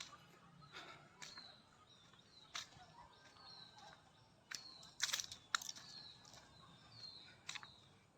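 A bird calling repeatedly, a short falling chirp about once a second, with a few sharp clicks or scuffs scattered through.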